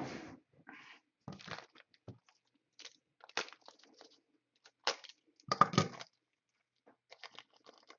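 Scattered crinkling and clicking of plastic card supplies being handled, in short irregular bursts, loudest a little over halfway through.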